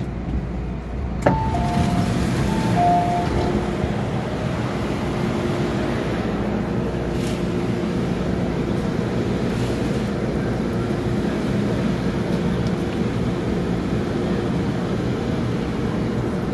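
MTR M-Train at a station: a sharp knock about a second in, then two alternating electronic beep tones for about two seconds, like the door-closing warning, over the train's steady rumble and hum.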